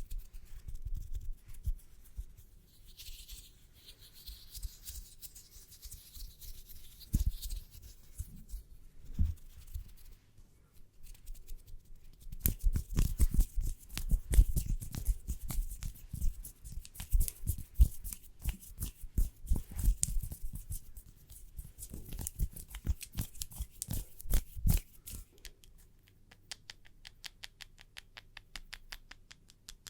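Close-miked ASMR hand and fingernail sounds. The first part is soft rubbing and scratching with a few scattered clicks. From about 12 seconds in come dense, rapid fingernail taps with thumping low knocks, and near the end there is a fast, even run of light ticks.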